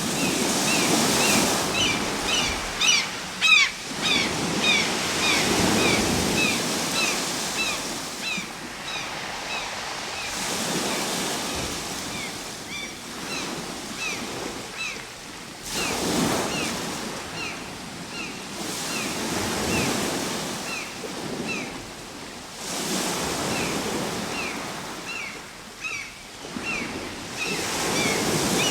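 Ocean waves breaking and washing on the shore, swelling and fading every few seconds. A bird repeats short, high, falling chirps throughout.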